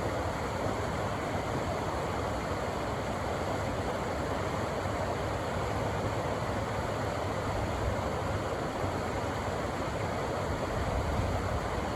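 Rushing river water: a steady, even roar of whitewater with a low rumble underneath.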